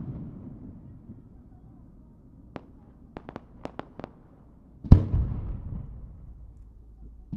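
Aerial fireworks: the rumbling echo of a shell burst dies away, then a quick run of about seven sharp cracks from a cluster of small bursts between about two and a half and four seconds in. About five seconds in a loud shell burst booms and rolls on with a long echo, and another boom comes right at the end.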